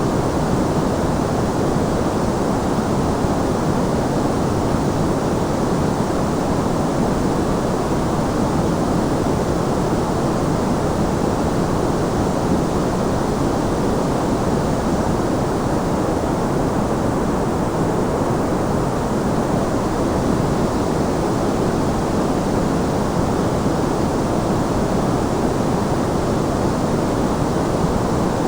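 Steady sleep-aid white noise, an even hiss that never changes, weighted toward the low and middle range so that it sounds deep rather than bright.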